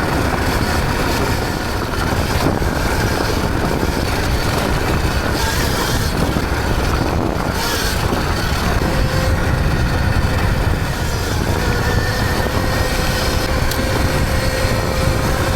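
Steady rush of wind buffeting the microphone, with tyre and drivetrain rumble from a Sur-Ron electric dirt bike being ridden on a dirt road. A faint steady tone joins in about halfway through.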